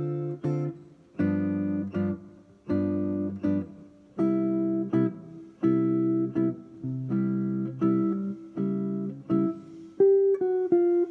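Guitar playing a series of struck jazz chords over a ii–V–I progression, each left to ring briefly, then a quick run of single notes near the end.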